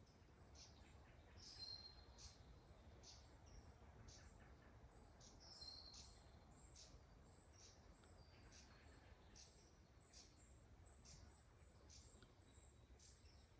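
Faint, high-pitched bird chirps repeating irregularly, one or two a second, over a low steady rumble.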